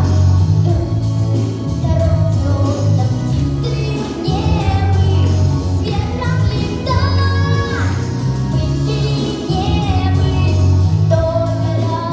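A girl singing a pop song over a backing track, her held notes wavering with vibrato above a steady bass line.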